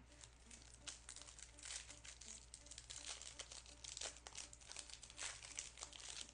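Plastic wrapper of a pack of 2022 Bowman University Best football cards crinkling and tearing as the pack is opened, in a run of irregular crackles.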